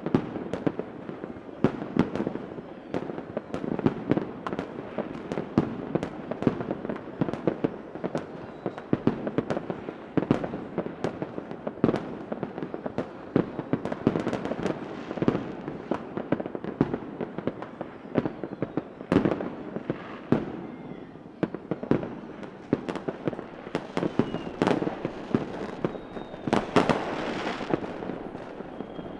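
Fireworks going off continuously: many sharp bangs in quick succession over steady crackling, with a few faint whistles in the second half.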